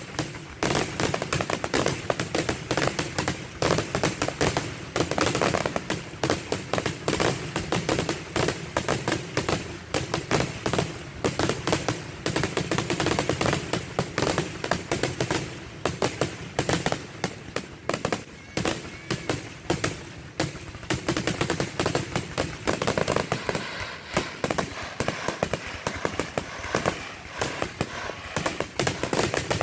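Aerial fireworks bursting in a rapid, continuous barrage of bangs and crackles, many shells going off at once with no break.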